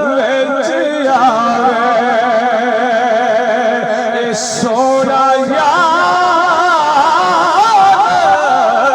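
Singing in a Punjabi devotional song, a voice drawing out long held notes that waver up and down, over a steady accompaniment. A new sung line starts about five seconds in.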